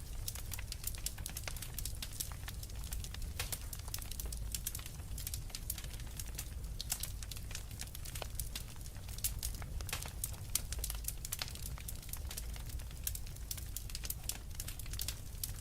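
Wood fire crackling steadily: many small irregular pops and snaps from burning logs over a low rumble of the flames.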